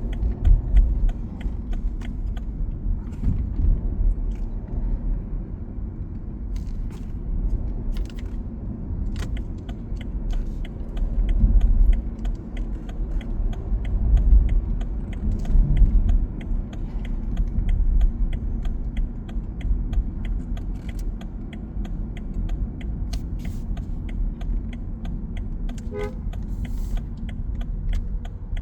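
City road traffic: a heavy low rumble of passing vehicles that swells in the middle, with faint ticking throughout and a short car-horn toot near the end.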